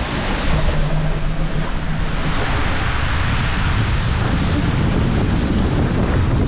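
Rushing water and wind buffeting a handheld action camera's microphone during a fast ride down a water-park tube slide, a loud steady rumbling rush.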